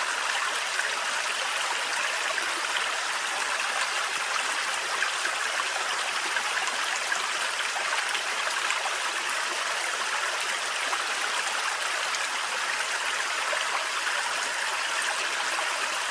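A small, slender forest waterfall: water splashing and running steadily, a hiss that sits mostly high with little low rumble.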